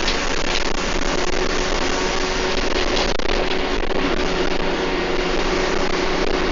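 Bus running at speed, heard from inside: a steady engine and drivetrain drone with a held whine that strengthens about halfway through. A few rattles or clicks come in the first half.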